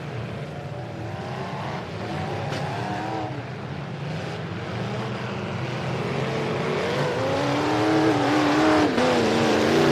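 Demolition-derby full-size pickup trucks' engines revving hard and pulling under load, getting louder through the second half.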